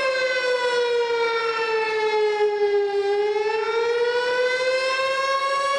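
Outdoor tornado warning siren wailing: one long tone that slides slowly down in pitch for about three seconds, then climbs back up.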